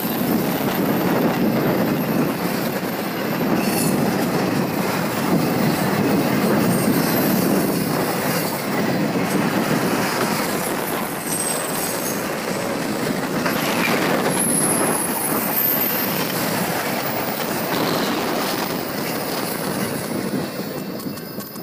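Intermodal freight train of trailer-carrying flatcars rolling past: a steady rumble and clatter of steel wheels on rail, with faint high-pitched wheel squeals. The sound falls away near the end as the last car passes.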